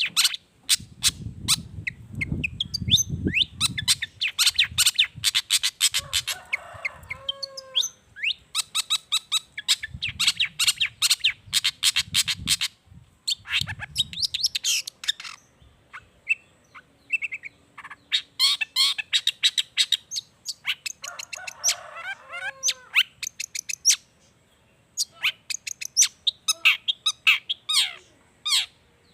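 Long-tailed shrike (cendet) singing energetically: fast runs of harsh chattering and trilled notes that mix in mimicked calls of other wild birds, broken by short pauses.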